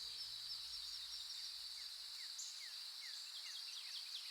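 Faint savannah ambience: a steady high insect trill, with many short, downward-sliding bird chirps scattered through it.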